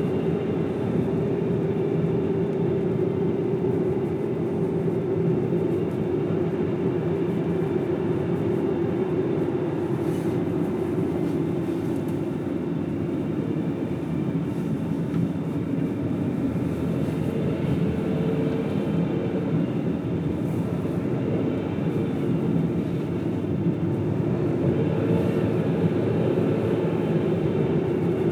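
Car driving along a road: steady engine and tyre road noise that rises and falls only slightly.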